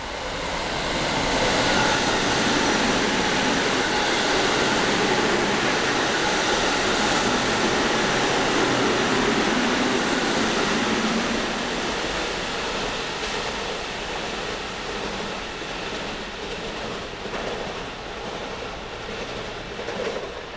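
Electric commuter train passing through the station at speed without stopping, its wheels running over the rail joints. The noise swells in about a second in, holds for ten seconds, then fades away as the train leaves.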